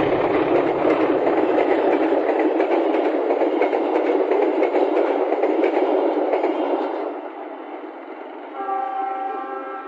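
Passenger coaches of a train running through at speed, loud and steady, then dying away about seven seconds in as the last coach passes. Near the end a steady sound made of several pitches comes in.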